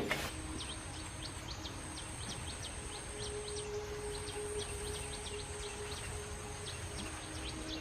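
Outdoor ambience: small birds chirping in many short, quick calls at an uneven pace over steady background noise, with a thin, steady high-pitched whine.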